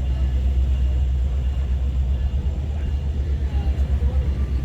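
Low, steady rumble of the CP Holiday Train, a diesel-hauled train, with no sharp sounds standing out.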